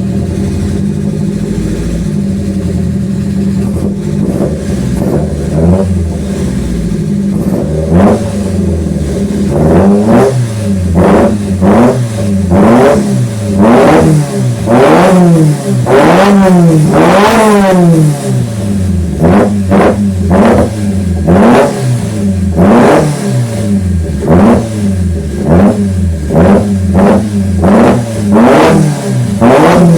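Car engine running through a side-exit exhaust, idling steadily at first, then blipped again and again from about eight seconds in, the revs rising and falling roughly once or twice a second, with the highest revs about halfway through.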